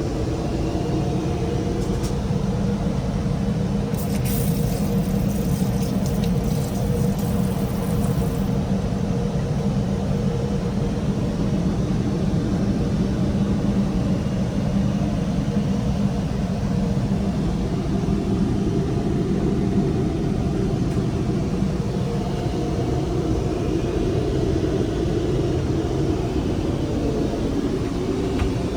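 Steady low rumble of Boeing 787-8 cabin noise, with a faint steady tone above it. A brief high hiss comes in a few seconds in and stops after about four seconds.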